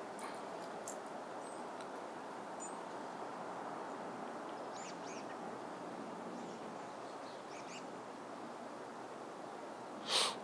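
A few faint, high, brief bird chirps scattered over a steady outdoor background hiss, with one short, louder, sharp sound near the end.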